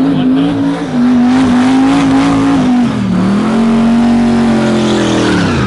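Drag car making a full-throttle pass: the engine pulls at high revs, the note dips at a gear change about three seconds in, then holds high again before falling away sharply near the end.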